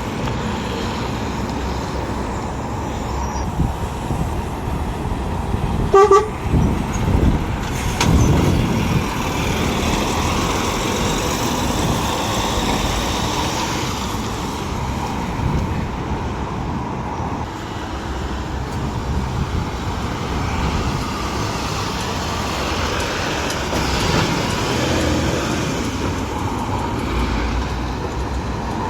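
Traffic at a motorway service area, vehicles running and passing steadily, with one short horn toot about six seconds in that is the loudest sound.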